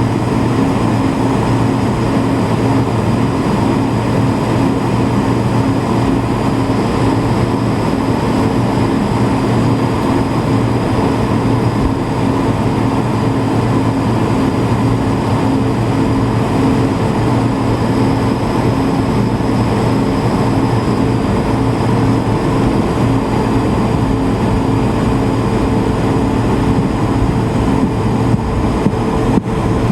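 Airbus A220-300's Pratt & Whitney PW1500G geared turbofan engines heard from inside the cabin, running at steady power: an even rush of noise with a steady low hum and whine that hold the same pitch throughout.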